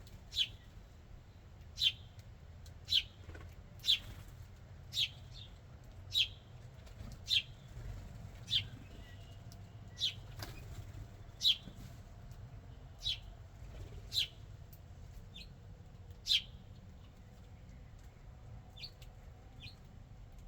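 A songbird giving single short, high chirps, one about every second or so in a steady series; the loud chirps stop about three-quarters of the way through, leaving a couple of fainter ones near the end. A faint low hum runs underneath.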